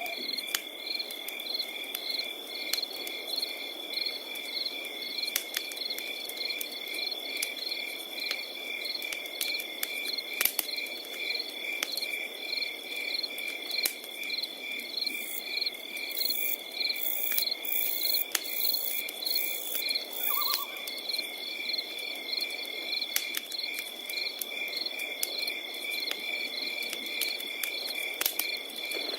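Tree crickets chirping: one holding a continuous high trill while others pulse in even, rapid chirps, over a crackling wood fire with scattered sharp pops, the loudest about ten seconds in.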